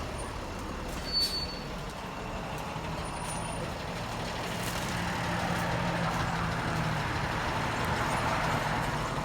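Steady road-vehicle noise outdoors, with a low engine hum that grows a little louder in the second half, like a truck or other traffic going by.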